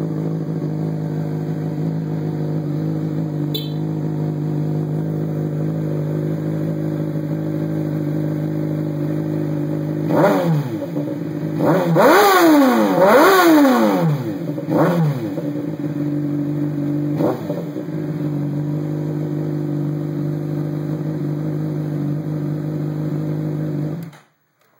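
2012 Honda CBR600RR's inline-four idling steadily and loudly through a Hyperflo exhaust with the baffle cores out. About ten seconds in it is revved in several quick blips, kept short of the rev limiter, each rising and falling back, then it settles to idle again. The sound cuts off suddenly near the end.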